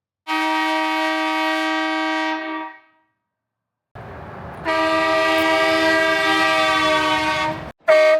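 Aftermarket upgrade horn on a Rivian R1S sounding: a steady blast of about two seconds, a longer one of about three seconds over a low rumble, then a short toot near the end.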